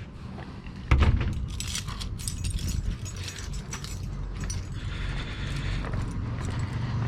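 A heavy thump, then keys jangling and clicking for a couple of seconds, over a steady low rumble.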